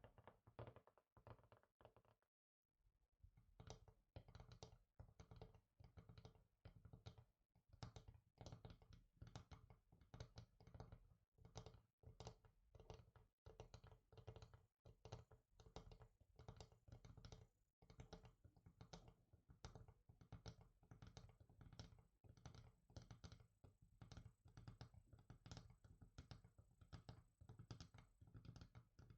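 Fingers tapping on a hard surface in quick, quiet runs of many taps a second, with a short pause about two seconds in.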